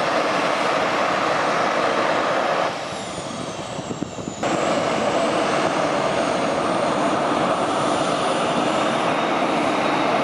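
Kawasaki T-4 jet trainer's twin turbofan engines running at high power on take-off: a loud, dense jet noise with a high whine. The sound drops away about three seconds in and comes back abruptly a second and a half later.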